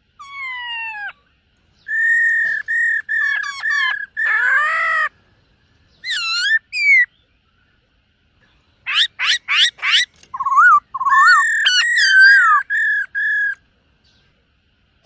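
Black-throated laughingthrush singing loudly: a run of clear whistled phrases (falling glides, repeated level whistles and quick rising notes) broken by short pauses.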